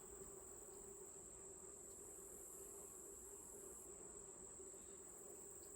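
Faint steady hum of honeybees at an open hive, with a steady high-pitched insect trill behind it.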